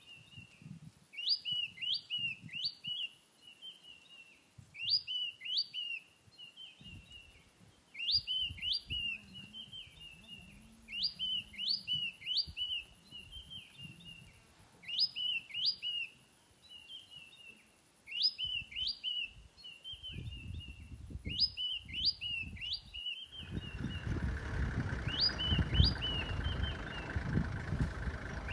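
A bird singing the same short phrase over and over: a few quick chirps followed by a short trill, repeated about every three and a half seconds. About three quarters of the way through, a steady low rumble joins in under the song.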